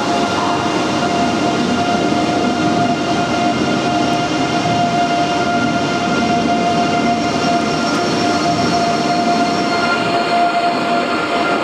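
Deutsche Bahn ICE 3M high-speed electric train moving slowly past. Its electrical equipment gives a steady whine, one strong tone with fainter higher ones, over an even rumble.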